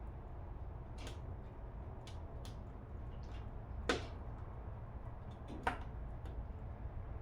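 Wood fire crackling in a fireplace: scattered small pops and snaps, two louder pops about four and six seconds in, over a steady low rumble.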